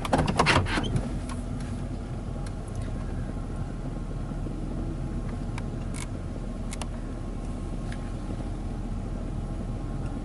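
Car engine idling with a steady low rumble, with a couple of faint clicks about six and seven seconds in.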